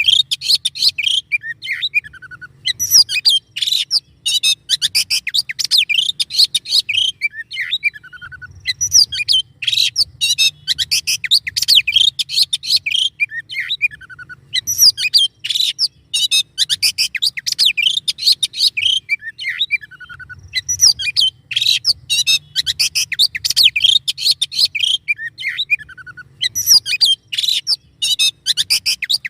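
Songbird masteran recording: a bird sings dense, rapid runs of sharp chirps and trills. The song comes in phrases a few seconds long, repeated with short pauses between them.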